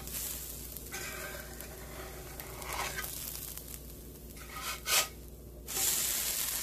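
Dosa batter sizzling on a hot cast-iron pan. About five seconds in a spatula knocks and scrapes under the dosa to lift and turn it, and the sizzle then grows louder.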